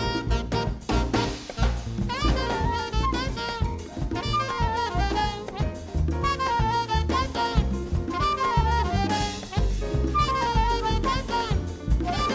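Live jazz band: a saxophone playing a fast, winding melodic line over walking bass and drum kit.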